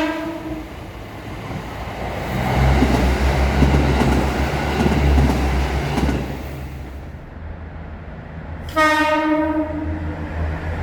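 JR Central KiHa 85 diesel railcar passing through with its Cummins diesel engines running in a steady low drone under the rumble of the wheels. A horn blast ends just after the start, and a second short horn blast sounds about nine seconds in.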